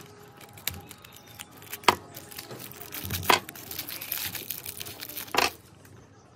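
Hand work on metal mincer parts: three sharp knocks about one and a half to two seconds apart, with scraping and rustling between them.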